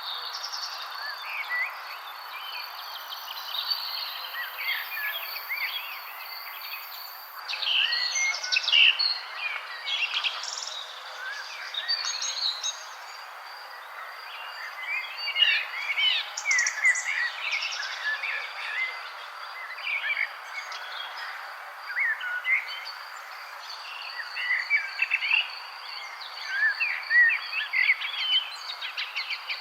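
A chorus of songbirds chirping and trilling over one another, with a steady high insect trill and a soft hiss underneath. The birdsong grows busier and louder about seven seconds in.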